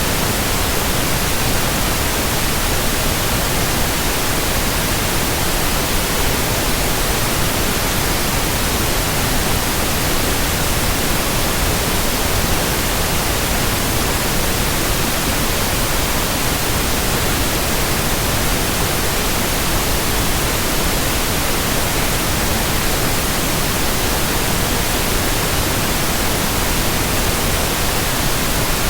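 Steady white noise: an even, unchanging hiss spread across all pitches, with no hum, swish or rhythm in it.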